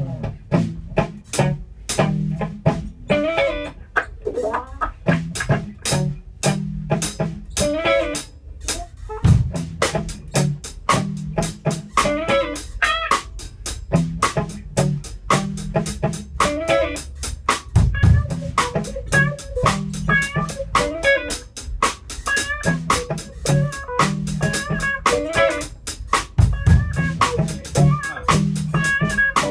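A live band playing: a drum kit keeps a steady beat, with bass guitar and electric guitar.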